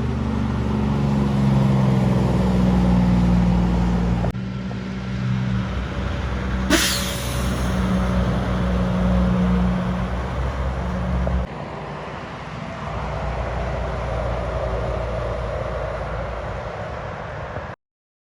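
A motor vehicle's engine running, its sound changing abruptly about four and eleven seconds in, with a sharp click and a brief falling whine near seven seconds; it cuts off suddenly near the end.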